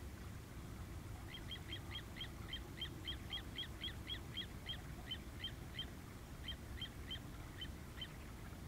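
A bird calling a rapid series of short, sharp notes, about three or four a second, in two runs with a brief pause about six seconds in, over a steady low background rumble.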